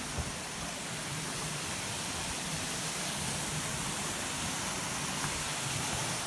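Steady rushing of a waterfall on the Agura River, an even roar of falling water.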